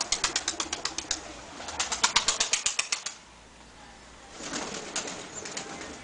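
Tumbler pigeons flapping their wings, two quick runs of rapid beats at about eight a second, the second starting near two seconds in, with a softer rustle of wings near the end.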